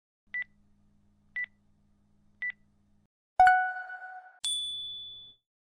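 Pose timer's countdown signal: three short high beeps about a second apart, then a louder chime that rings and fades, followed by a higher ding, marking the end of a timed drawing pose.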